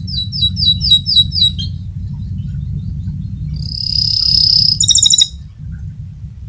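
Domestic canary singing: a quick run of repeated chirping notes, then a long rolling trill ending in a brief fast rattle about five seconds in, over a steady low background rumble.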